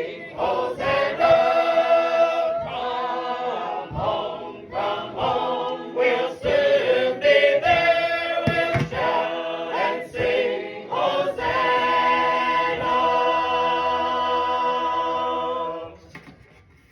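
A choir or congregation singing a hymn in harmony, apparently unaccompanied. The voices change chords every second or so, then hold a long final chord that stops about a second before the end.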